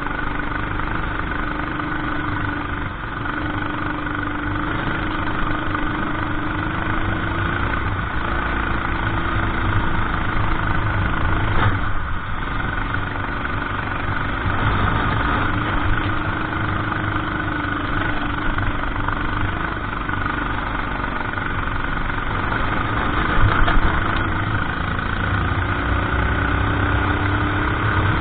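Racing kart engine running hard, its pitch climbing for a few seconds at a time and then dropping back, over and over, as the kart accelerates out of corners and lifts off into the next.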